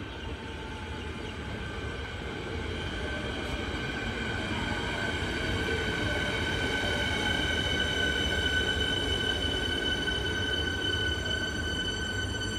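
Siemens Nexas electric suburban train running past on the track: a low rumble of wheels on rail with a steady high whine over it, swelling to a peak about eight seconds in and easing off near the end.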